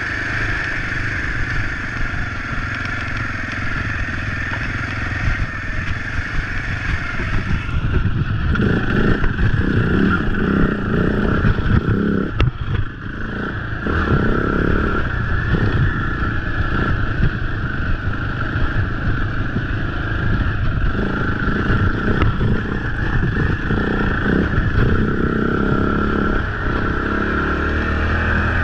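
Husaberg FE 450 single-cylinder four-stroke dirt bike engine running under way, the throttle rising and falling. Its note grows louder and more uneven from about eight seconds in.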